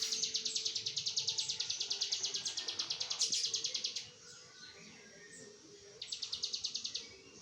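Ciblek gunung (cigun, a prinia) singing its rapid 'laser shot' trill: a fast, even run of high notes, about ten a second, for about four seconds. After a short pause it gives a second, shorter burst of the same trill.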